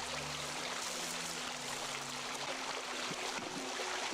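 Steady rush of running water, with a faint low steady hum beneath it.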